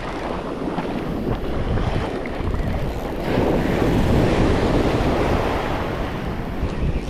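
Wind buffeting the microphone over the wash of ocean surf, with a wave breaking louder a little after three seconds in.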